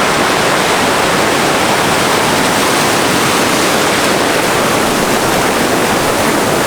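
Loud, steady rushing noise with no rise or fall.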